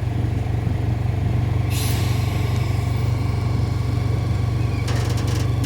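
Zoo ride-on train's engine running steadily with a low hum. About two seconds in a long hiss comes in and slowly fades, and a few sharp clicks sound near the end.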